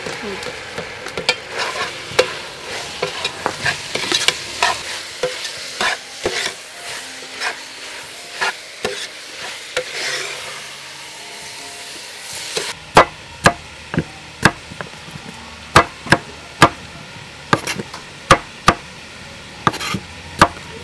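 Beef sizzling in a metal pot while a metal ladle stirs and scrapes it, with frequent clinks. About two-thirds of the way through it gives way to a cleaver chopping carrots on a wooden chopping board: sharp single chops, irregular, a little over one a second.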